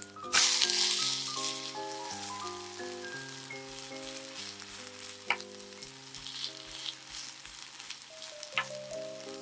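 Shredded potato pancake flipped onto hot oil in a nonstick frying pan: a loud burst of sizzling about half a second in, settling into steady frying. A wooden spatula taps it twice. Soft background music plays underneath.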